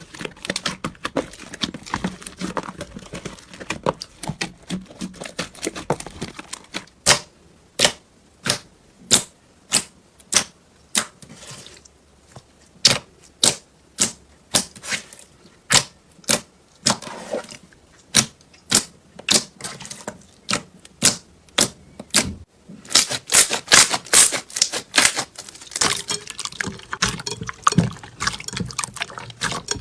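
Slime being pressed and worked by hand, making sharp popping clicks about twice a second, with softer crackling at the start and a dense burst of crackling near the end.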